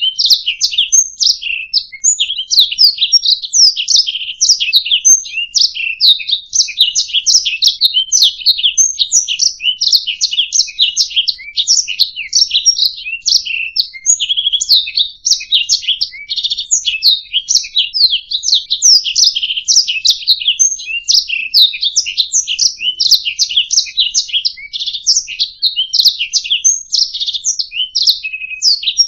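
Domestic canary singing a long, continuous song of rapid chirps, trills and rolls.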